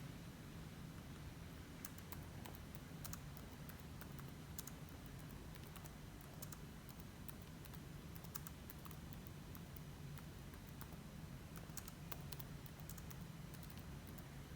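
Faint typing on a computer keyboard: irregular runs of key clicks over a steady low hum.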